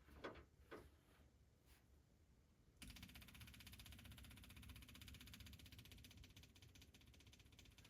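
A few light clicks, then about three seconds in the truck's starter suddenly begins cranking the blown small-block engine, a faint steady whir that goes on without the engine firing: it is not getting fuel.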